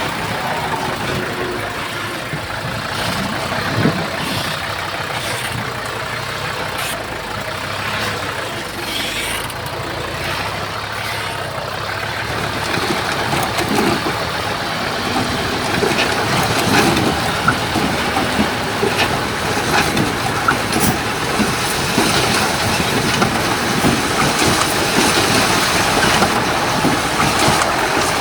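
Komatsu D31P crawler bulldozer's diesel engine running, getting louder about halfway through, with frequent short clanks over it.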